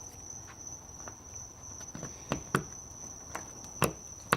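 Ball bearing being press-fitted into a 3D-printed ABS hand spinner: a few sharp clicks and knocks about two seconds in and again near the end. A steady high-pitched whine runs underneath.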